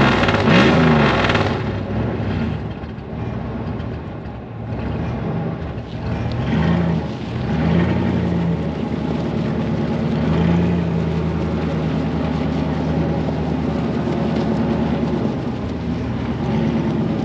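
Dodge mud truck engine running while being driven, its pitch climbing and falling several times as it is revved. The loudest stretch comes in the first second and a half.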